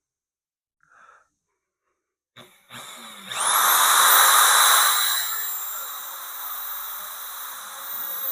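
After about two seconds of near silence, a 1/2-inch corded electric drill clicks and starts about three seconds in, its motor whine rising quickly to a high steady pitch, then runs on steadily as it drills into the steel loader bucket.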